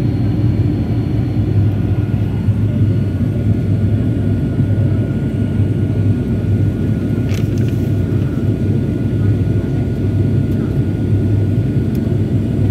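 Airliner cabin noise heard from inside the cabin: a steady low rumble of the jet engines and airflow, with a faint steady whine above it. A brief click comes about seven seconds in.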